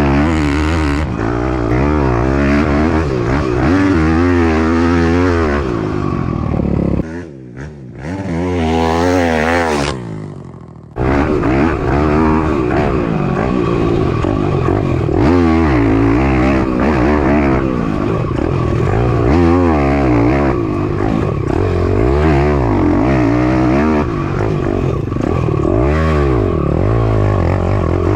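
Piranha 190 pit bike's single-cylinder four-stroke engine being ridden hard, its pitch rising and falling again and again as the throttle opens and closes. About seven seconds in it suddenly drops much quieter for a few seconds, the pitch still sliding, then comes back at full strength.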